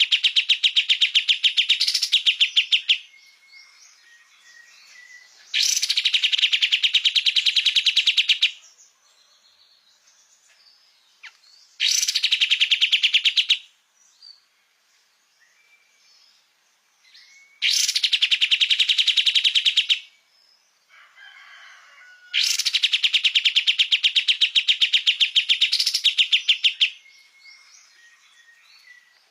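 Kapas tembak songbird singing a loud, rapid trill of quickly repeated notes in bursts of about two to five seconds, five in all, with faint short chirps in the pauses between.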